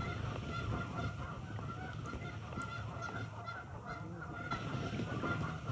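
A flock of geese honking, many calls overlapping in a steady chatter.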